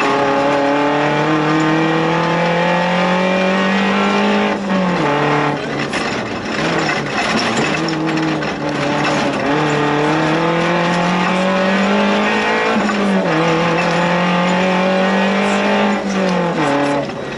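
Suzuki Jimny 1300 16-valve four-cylinder engine heard from inside the cabin, pulling hard with revs climbing slowly for several seconds at a time. The revs drop sharply about four and a half seconds in, again around thirteen seconds and near the end.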